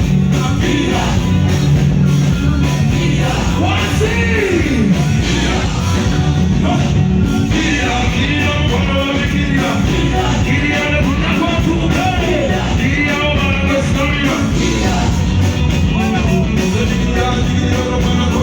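Loud music with a singer's voice, played live through a PA sound system.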